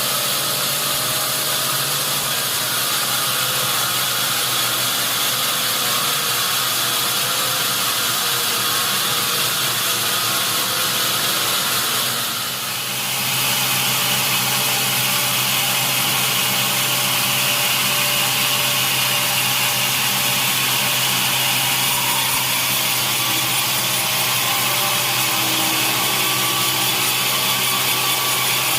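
Sawmill saw cutting through a large log: a steady, loud hiss of the blade in the wood over the steady hum of its motor, dipping briefly about halfway through.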